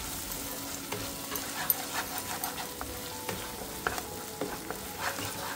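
Ground masala paste sizzling in hot oil in a kadhai while it is stirred with a spoon, which clicks now and then against the pan.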